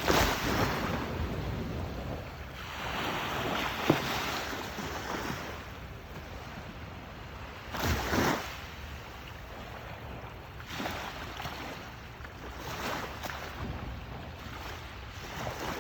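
Waves washing in, a rushing noise that swells and falls in surges every few seconds, with wind on the microphone and one sharp knock about four seconds in.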